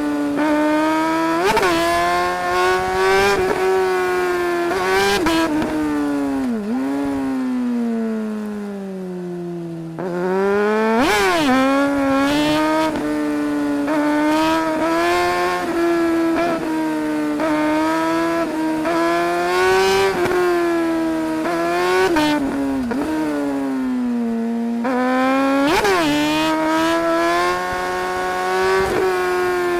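Suzuki GSR 600's inline-four engine heard from the rider's seat under hard riding. The revs rise and fall repeatedly, with a long engine-braking slowdown about a third of the way in before it pulls hard again.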